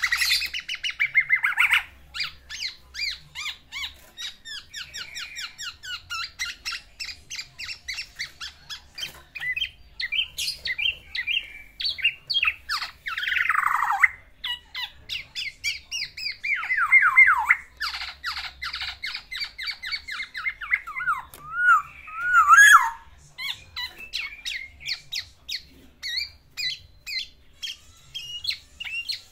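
Male black-naped oriole singing a long, varied song of rapid repeated notes, chattering trills and a few loud downward-sweeping whistles. Much of it is the mimicked songs of other birds in its repertoire, sung to court a female.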